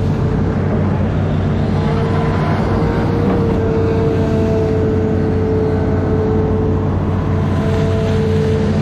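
Amphibious excavator's diesel engine running steadily under work, with a steady whine over it that shifts slightly in pitch.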